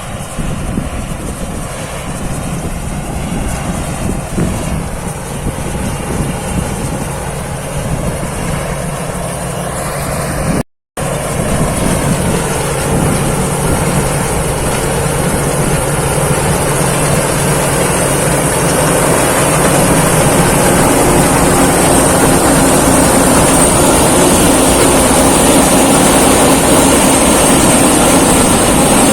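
Thai Seng Yon rice combine harvester running steadily while harvesting, its engine and threshing machinery making a continuous drone. The sound cuts out for a moment near the middle and grows louder about two-thirds of the way in.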